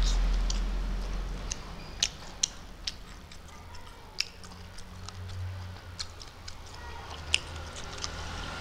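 A person chewing a mouthful of rice and fish close to the microphone, with sharp, wet mouth clicks and lip smacks scattered irregularly through it.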